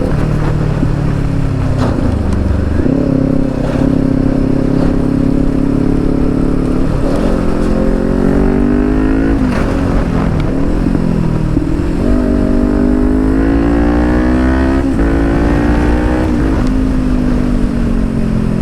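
Kawasaki Ninja 400's 399cc parallel-twin engine through an Akrapovic exhaust, accelerating through the gears: loud, with its pitch climbing and then dropping sharply at each shift, and several quick drops in a row near the middle.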